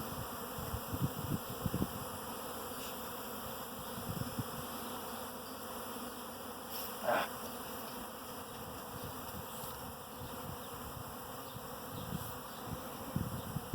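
A clustered honeybee swarm buzzing steadily, calm rather than airborne, with low rumbling bumps near the start and again near the end. About seven seconds in there is one brief louder buzz.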